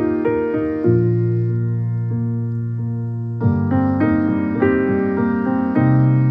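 Background piano music: a few struck notes and a held low chord, then a fresh run of notes starting a little past halfway.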